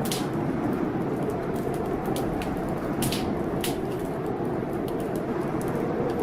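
Blizzard wind blowing steadily with a low, wavering moan, over a wood fire in a fireplace crackling with scattered sharp pops.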